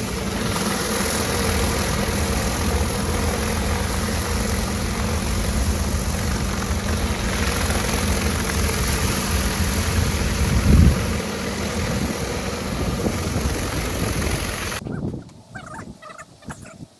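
Pressure washer running: the steady hum of its engine under the hiss of the water jet, with a brief louder surge about eleven seconds in. It cuts off suddenly about fifteen seconds in, leaving faint scattered sounds.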